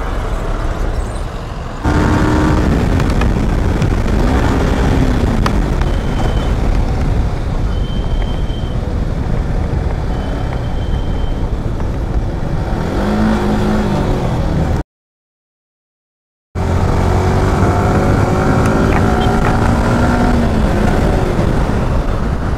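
Yamaha R15M's single-cylinder engine under way, its pitch rising and falling as it accelerates and eases off, over a heavy wind rumble on the microphone. The sound cuts out completely for about two seconds, about two-thirds of the way in.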